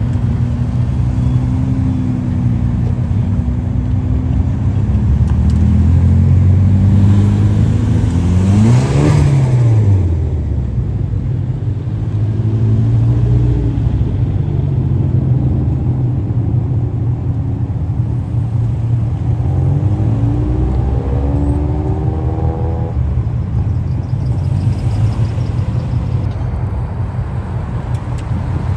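Car engines running with a steady low rumble. One engine revs up and back down about nine seconds in, and another climbs in pitch around twenty seconds in.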